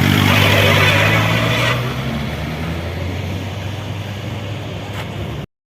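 Motorcycle engine idling steadily, with a hiss of background noise over the first couple of seconds. The sound cuts off abruptly near the end.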